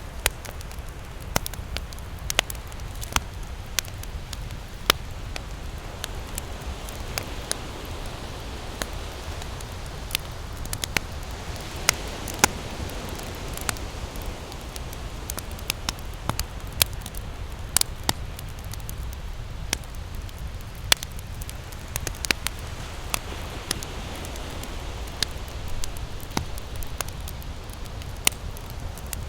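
Wood campfire crackling, with irregular sharp pops, over the low, steady rumble of ocean surf that swells now and then.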